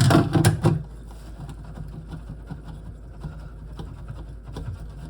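A quick cluster of hard knocks and clatter lasting under a second, then quieter scattered clicks and rubbing as the washed item is handled at the sink.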